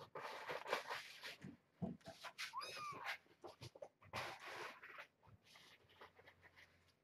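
Rustling and scratching, with one short rising-and-falling kitten mew near the middle.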